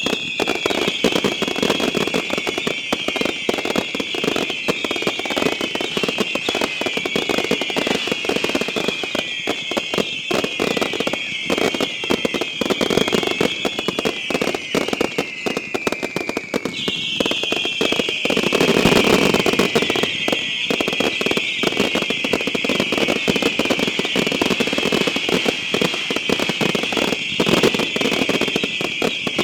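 A barrage of firework whistles going off together, many overlapping whistles each sliding down in pitch, over constant crackling and popping. A fresh volley of whistles starts about seventeen seconds in, and a louder burst with deeper bangs follows a couple of seconds later.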